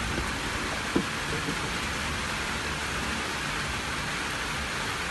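Steady rain falling hard, an even hiss, with one brief knock about a second in.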